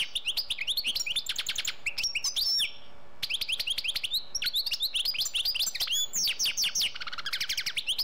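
Birds chirping in quick succession, many short high downward-sweeping chirps several a second, with a brief pause about three seconds in.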